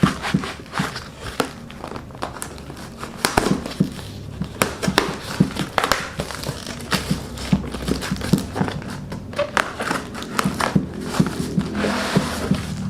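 Packaging being handled and unwrapped by hand, crinkling and crackling in irregular bursts.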